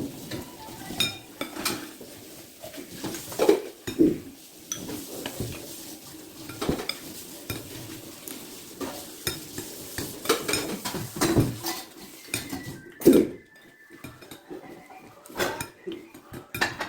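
Tableware clinking and scraping during a meal: spoons and utensils knocking irregularly against plates and bowls.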